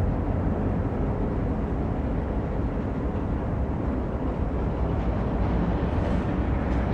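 Freight train hauled by diesel locomotives rumbling past: a steady low drone with no change in level.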